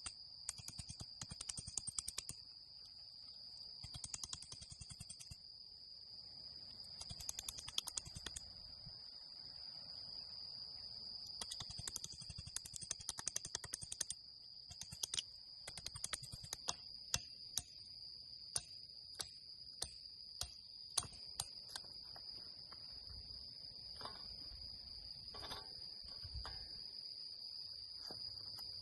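Night insects keep up a steady high-pitched chirring chorus, with irregular sharp clicks and taps scattered through it.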